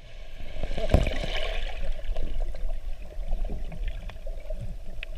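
Sea water around a boat: a splash about a second in, then water lapping and trickling over a low steady rumble.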